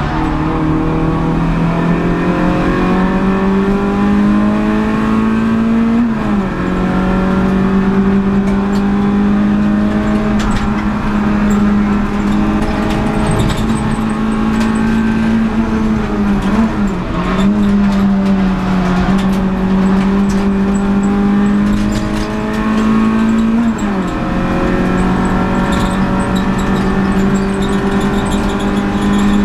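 Renault Clio Sport 182's 2.0-litre four-cylinder engine under hard acceleration, heard from inside the stripped race-car cabin. Its pitch climbs slowly and drops sharply three times at gear changes.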